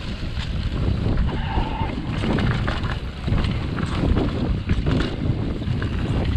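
Wind buffeting the microphone on a mountain bike descending a rough trail, with the bike rattling and knocking over bumps throughout.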